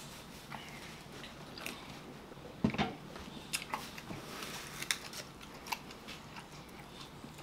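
Close mouth and chewing sounds of people eating rotisserie chicken, with scattered small clicks and smacks. One louder, fuller thump comes about two and a half seconds in.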